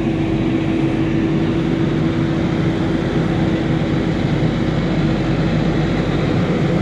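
Case tractor's diesel engine running steadily close by as it manoeuvres on the path, a constant drone with a low rumble.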